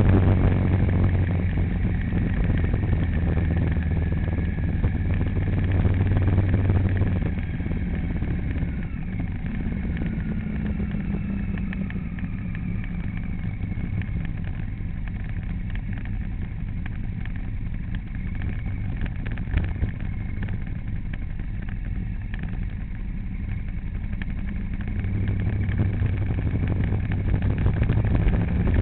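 A motor vehicle driving along: steady engine and road noise with a low hum that is strongest for the first several seconds, eases off through the middle and builds again near the end.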